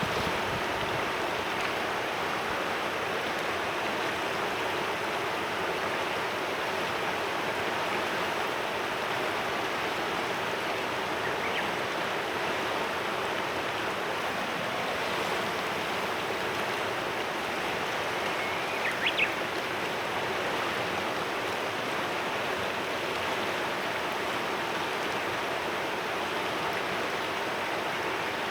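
Clear mountain river flowing steadily, an even rushing murmur of water. A single brief high bird chirp cuts through about two-thirds of the way in.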